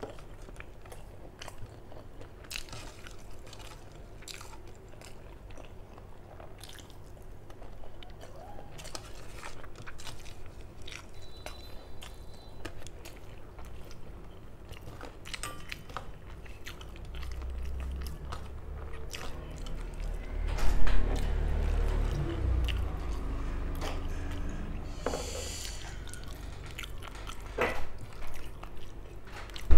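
Close-miked chewing and smacking mouth sounds of a person eating rice and curry with the fingers. There are soft squishes and scrapes as the rice is mixed by hand on a steel plate. A low rumble builds in the second half, with a loud knock a little past two-thirds through.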